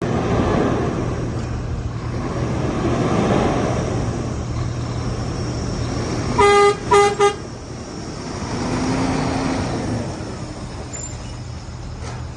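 Truck diesel engine running steadily, with a vehicle horn tooted three times about six and a half seconds in, one longer toot then two short ones.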